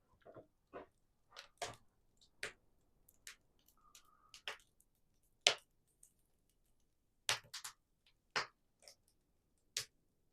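Faint, irregular sharp clicks and pops, about a dozen, spaced unevenly with the loudest near the middle and later on, plus one brief short tone around four seconds in.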